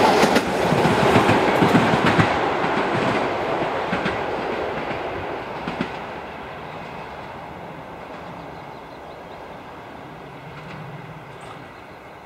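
Passenger train running away after passing: its wheels click over the rail joints several times in the first couple of seconds, then the rumble fades steadily into the distance.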